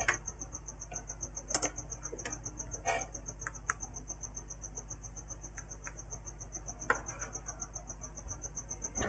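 A cricket trilling steadily, a fast, even, high-pitched pulsing, with a few faint clicks and taps from handling tools and the board.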